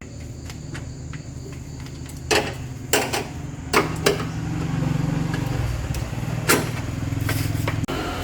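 A low, steady engine hum, with about five sharp knocks scattered through the middle.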